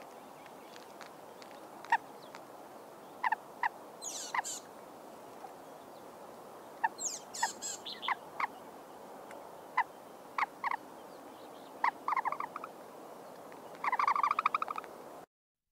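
Short, sharp animal calls at irregular spacing over a faint steady hiss. There are two brief raspy calls, and near the end a fast rattling run of calls.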